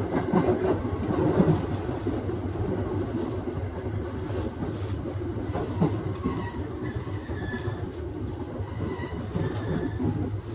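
Aoimori Railway 701 series electric train running along the line, heard from inside the leading car: a steady low hum and wheel-on-rail noise, with a faint high wheel squeal from about six seconds in.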